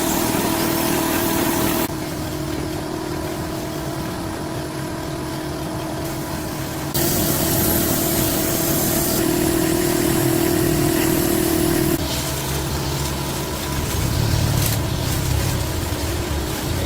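A steady mechanical hum from a running engine or motor, changing abruptly in level and pitch about two, seven and twelve seconds in.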